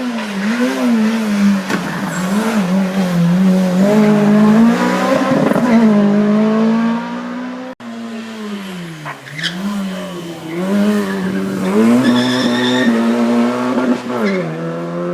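Racing car engine revving hard, its pitch climbing and dropping again and again with throttle lifts and gear changes. The sound breaks off abruptly about eight seconds in, then the engine revs on in the same way.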